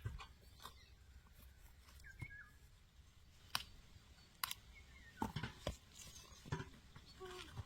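A handful of sharp clicks and knocks, several bunched together past the middle, with faint bird chirps in the background.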